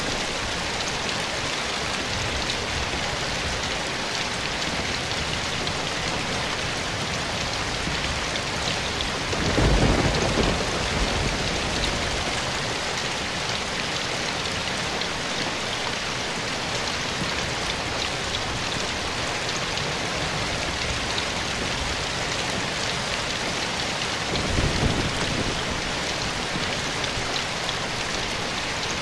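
Steady rain falling in a forest, with two low rumbles of thunder, one about ten seconds in and another near the end.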